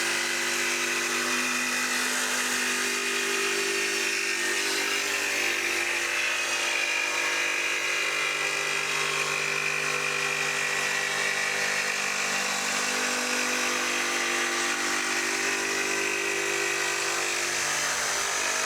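A small electric motor running steadily at constant speed, a continuous buzzing hum that neither rises nor falls, typical of a power tool running without load.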